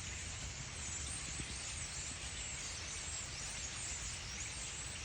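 A huge flock of birds calling all at once: a dense, steady chatter of countless high chirps, with a low rumble underneath.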